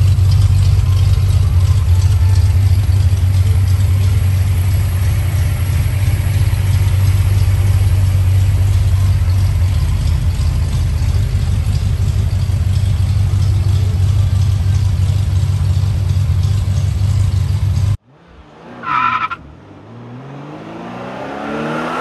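1963 Ford Falcon's engine idling steadily with a low exhaust rumble, cut off suddenly near the end. It is followed by a short tone and a swelling, whooshing sweep rising and falling in pitch: a graphics sound effect.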